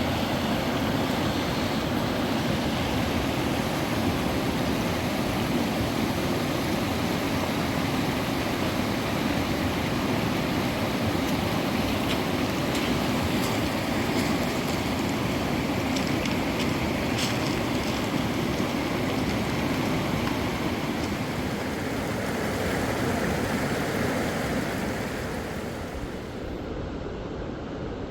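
Steady rushing of flowing river water, easing slightly near the end.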